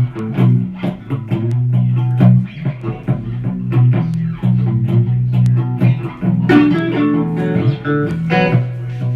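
Guitar playing a heavy blues riff: sharply picked low notes, with a quicker run of higher notes about two thirds of the way through.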